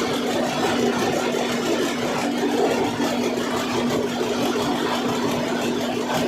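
Cummins NTA855 turbocharged inline-six diesel engine of a rubber tyre gantry crane running steadily without load during a function test, with an even, unchanging hum.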